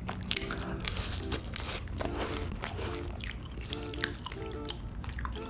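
Close-miked chewing and smacking mouth sounds from eating chewy tteokbokki rice cakes and fish cakes in a sticky red chili sauce, with many short wet clicks. Soft background music with a repeating short-note melody plays underneath.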